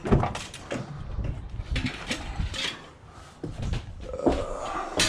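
Scrap metal being handled and moved: irregular knocks, scrapes and rattles, with a sharp clank at the start and another near the end.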